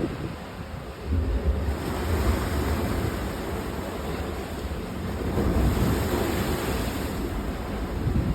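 Sea surf and wind: a steady wash of waves with a low wind rumble that picks up about a second in.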